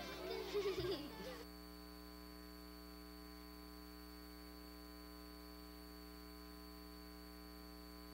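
The last notes of the closing theme music end abruptly about a second and a half in. A faint, steady electrical mains hum follows for the rest.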